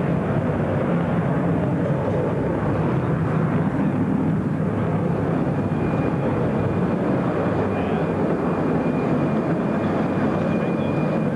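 Jet airliner's engines running with a steady, loud rumble; a thin high whine joins in about halfway through.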